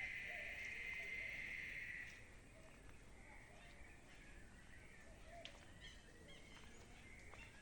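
Outdoor nature sound: a steady high buzz drops away about two seconds in, leaving faint scattered bird chirps.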